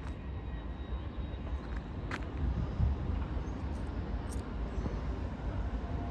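LNER express passenger train pulling out of the station, a steady low rumble with a couple of faint clicks.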